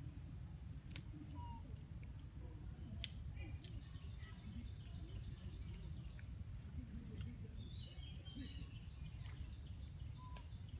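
Birds chirping faintly, with a run of short high chirps through the middle and a few single short notes, over a low steady rumble; a few sharp clicks stand out.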